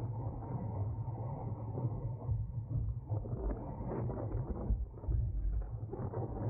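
Wind buffeting a racing cyclist's camera microphone at race speed: a steady low rumble under a rough rushing noise, with a few faint clicks.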